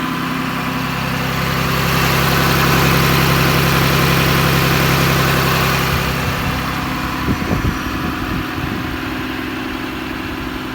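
Cummins turbo diesel inline-six of a Dodge Ram 5500 idling steadily, with a rushing hiss that swells for a few seconds in the middle and a few low thumps about seven seconds in.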